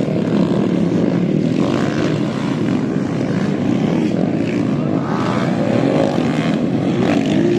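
Several motocross bikes' engines running together in a dense, steady drone, with some of them revving up and down.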